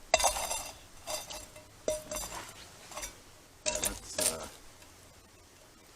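Metal cookware clanking and clinking: five or six separate knocks with a short metallic ring, over the first four seconds or so, as pans and utensils are handled to start cooking eggs.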